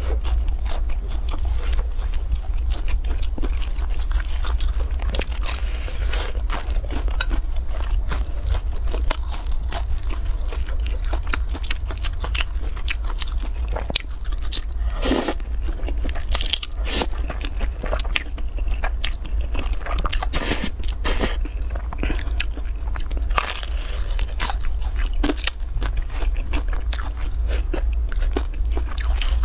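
Close-up eating sounds: bites into a crisp pan-fried beef pie crunching, then chewing, as many short crackly clicks scattered throughout, over a steady low hum.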